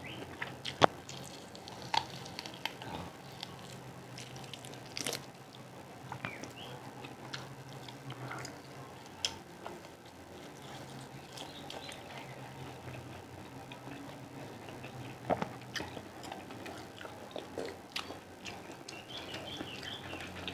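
Close-miked chewing and biting of food, with scattered sharp clicks and smacks over a faint steady low hum.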